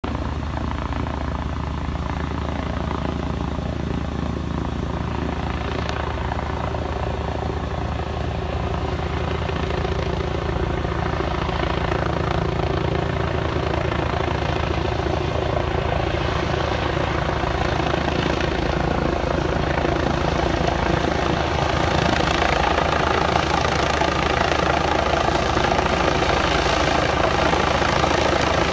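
Eurocopter EC135 twin-engine medevac helicopter coming in to land, its rotor and turbine sound steady in pitch and growing gradually louder as it nears.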